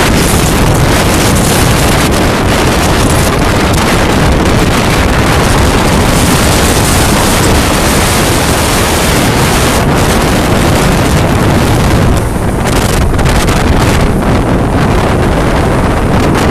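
Storm wind blowing hard across the microphone, a loud unbroken rush that eases slightly about twelve seconds in.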